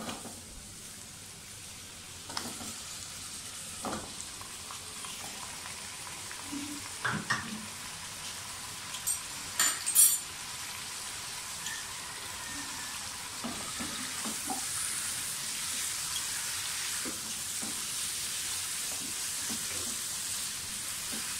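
Raw chicken pieces sizzling as they are added to hot oil and fried onions in a wok and stirred with a spatula. There are a few dull knocks early on and a cluster of sharp clinks about ten seconds in. The sizzle grows louder and steadier through the second half as the pan reheats.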